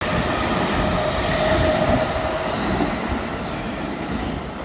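Green-and-orange-striped stainless commuter electric train running past and pulling away, its wheel and running noise slowly fading as it recedes. A steady tone rides on the noise for the first two seconds, then stops.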